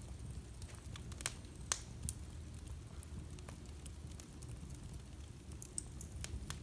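Wood fire in a fireplace crackling, with scattered sharp pops, a few louder ones about a second and a half in, over a low steady rumble of the flames.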